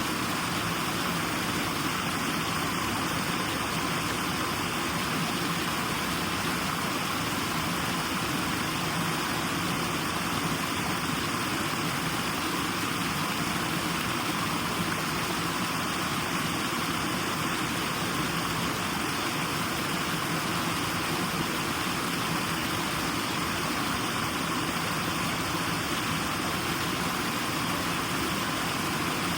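Steady white noise for sleep: an even, unchanging hiss, strongest in the upper-middle range.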